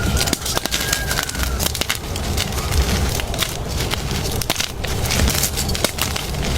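Blocks of gym chalk being crushed and crumbled, giving a dense, steady run of crisp crunching and crackling.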